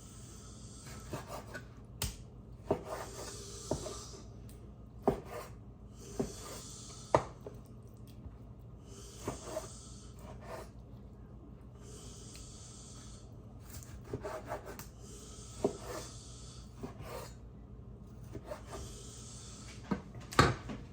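A knife sawing through raw chicken to cut it into bite-size pieces, in repeated scraping strokes. Irregular sharp knocks of the blade and pieces against the cutting board come between the strokes, the loudest near the end.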